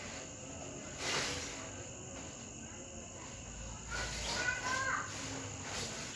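Crickets chirring in a steady high drone, with a brief rustle about a second in and faint voices near the middle.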